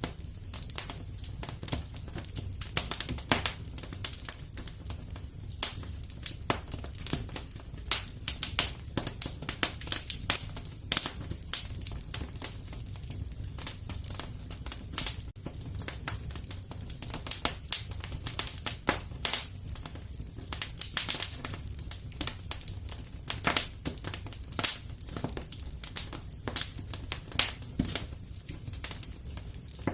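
Wood fire in a fireplace crackling, with irregular sharp pops and snaps several times a second over a steady low rumble.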